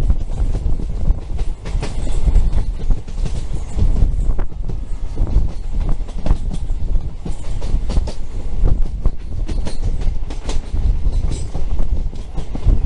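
Passenger train running at speed, heard from beside an open coach window: a steady heavy rumble of wheels on rail with irregular knocks and clatter from the bogies.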